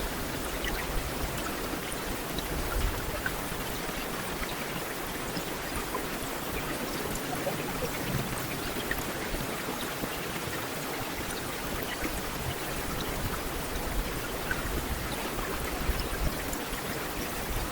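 Heavy rain falling steadily on a street, a dense even hiss with scattered sharper drop ticks.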